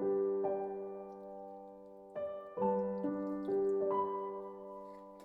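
Background music: soft piano chords, struck and left to ring and fade, with new chords every second or two.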